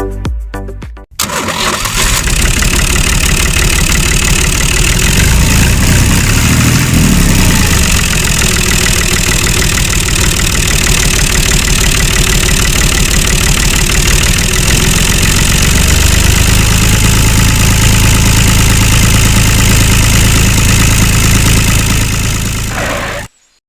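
An engine running loudly and steadily with a fast low pulsing. It starts about a second in and cuts off abruptly near the end.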